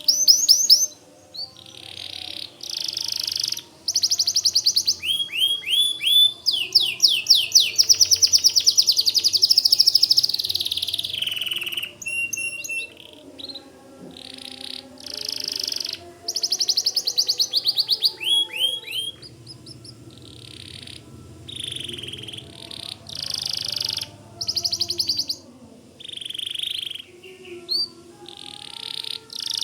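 White domestic canary singing: long rapid trills and strings of quick falling notes in phrases of a second or two, with short pauses between them.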